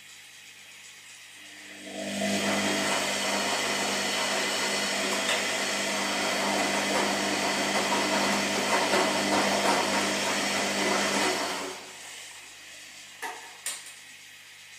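Washing machine drum turning under its motor for about ten seconds, a steady hum with a rushing noise, then stopping. Two short clicks follow near the end.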